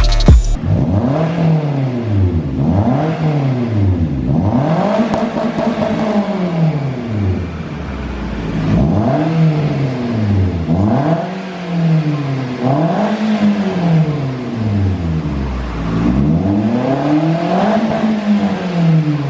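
Toyota Avanza 1300cc four-cylinder engine revved over and over through an NDK DK-03v3 aftermarket muffler with stock header and resonator, giving a deep, bassy exhaust note. The revs rise and fall about once every two seconds.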